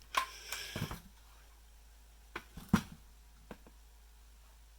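Handling noise from a Big Launcher line launcher: a quick run of clicks and rattles, then three separate knocks, the middle one the loudest.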